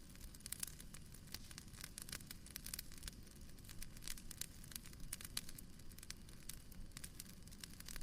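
Soft wood fire crackling in a fireplace: frequent small, irregular snaps and pops over a low, steady rumble.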